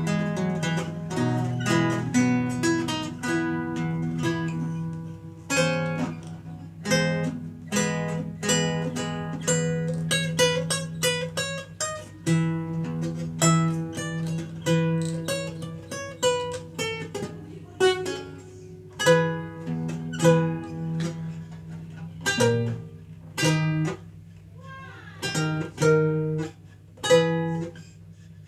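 Renaissance lute played solo: plucked chords and single-note lines, with bass notes ringing on beneath them.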